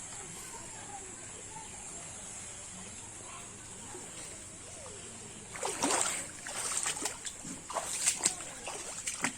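Floodwater splashing and sloshing, in a run of irregular splashes starting a little over halfway through, the loudest two about two seconds apart. Before that there is only a steady low background hiss.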